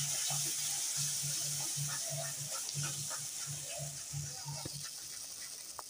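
Fresh tomato puree sizzling in hot oil and spice masala in a steel kadai, stirred with a steel spatula that scrapes and clicks against the pan. A low hum pulses about four times a second underneath.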